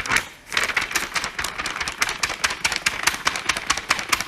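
A sheet of paper being flicked and shaken in the air, making a rapid run of crisp flapping snaps. There is a brief lull just after it begins.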